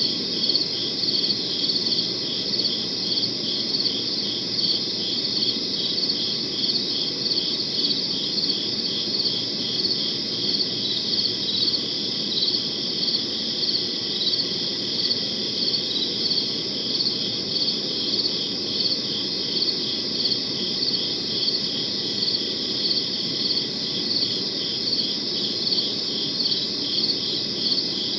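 Crickets chirping in a steady chorus, high-pitched and evenly pulsed, over a low steady background noise.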